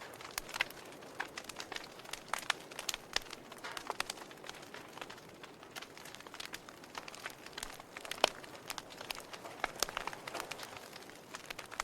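Wood fire crackling: irregular sharp pops and snaps over a soft hiss, with one louder pop about eight seconds in.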